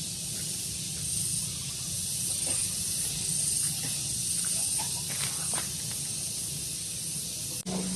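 Outdoor daytime ambience: wind rumbling on the microphone under a steady high hiss that swells and fades, with a few faint bird chirps in the middle. Near the end the sound cuts off abruptly and a steady low hum begins.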